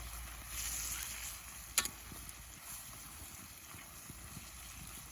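Pork belly and sauce sizzling in an iron frying pan over a wood fire, a steady hiss with a single sharp pop a little under two seconds in.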